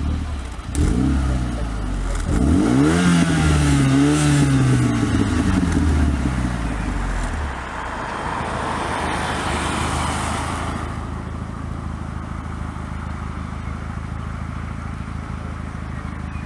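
Performance car engine revving hard several times, the pitch sweeping up and down. After about seven seconds the engine note falls away, leaving a steady rushing noise.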